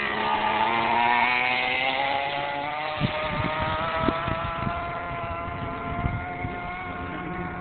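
R/C monster truck's motor running with a steady, slowly falling pitch, with a series of sharp clicks from about three seconds in.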